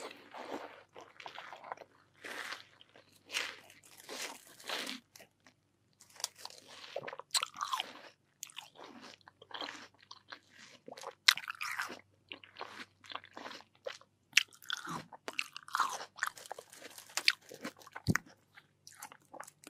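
Close-miked bites and chewing of crisp, juicy watermelon: irregular wet crunches, with short pauses between bites.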